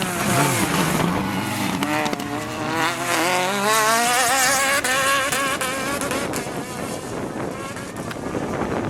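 Rally car engine pulling hard, its note rising steadily for about three seconds before growing fainter.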